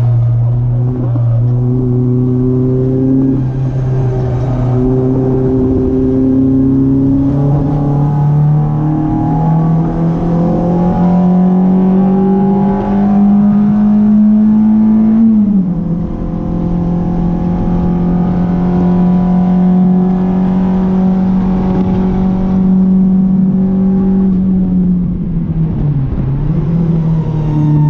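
Renault Clio RS 182's 2.0-litre four-cylinder engine under load on track. The pitch climbs slowly and steadily, drops sharply about halfway through at an upshift and climbs again. Around the last few seconds it falls away as the car slows, then picks up again near the end.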